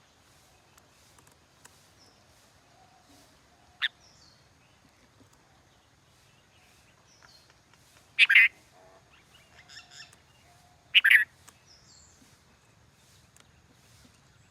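A bird giving two short, loud calls about three seconds apart, with softer calls between them and a single sharp click earlier on.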